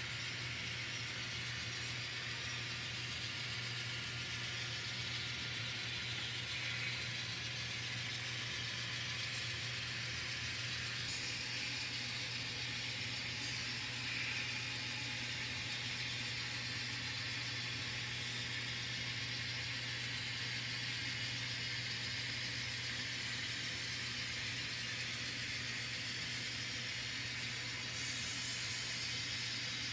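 N scale diesel locomotives running on the layout, their ESU LokSound decoders playing a steady diesel engine sound over a constant low hum, with two faint bumps about seven and fourteen seconds in.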